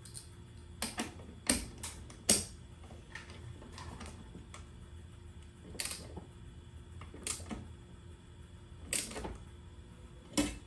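Irregular sharp clicks and knocks of metal hardware and tools being handled, in small clusters about a second or two apart.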